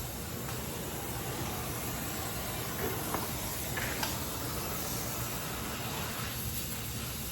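Gas welding torch flame hissing steadily while aluminium is flame-welded, with a couple of small pops about three and four seconds in.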